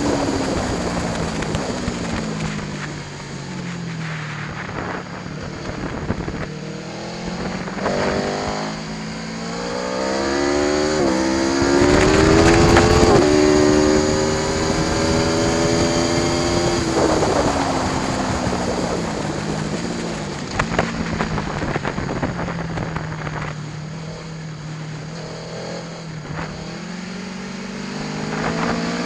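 Aprilia Tuono V4 1100 Factory's V4 engine on track. The revs fall at first, then climb hard with a brief gear-change dip about eleven seconds in. They are held high and loudest for a few seconds, then fall away again and start rising near the end.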